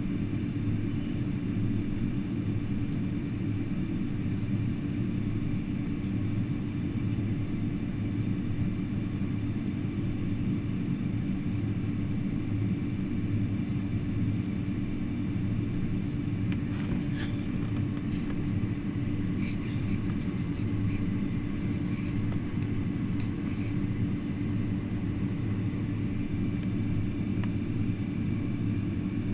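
Steady low drone inside the cabin of a Boeing 747-400 on the ground after landing, with a constant hum and no change in pitch. Faint clicks and distant voices are heard a little past the middle.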